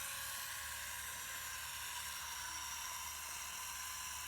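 RC model tractor's small electric motor and gearbox running steadily under load on a climb, a hiss with a thin steady whine.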